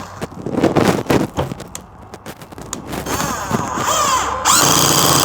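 Avid Power cordless impact driver driving a screw. An irregular rattle of knocks for about three seconds, then the motor's whine rising and falling in pitch, ending in its loudest run near the end.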